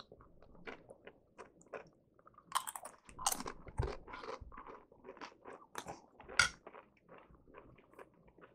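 Crunching and chewing of chips dipped in chili, a run of short sharp crunches, loudest about two and a half to three and a half seconds in and again about six and a half seconds in.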